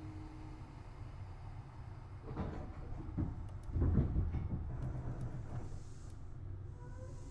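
Tobu Railway Series 6050 electric train car heard from inside: a steady low rumble broken by several knocks and clunks, the loudest about four seconds in. Faint rising tones begin near the end.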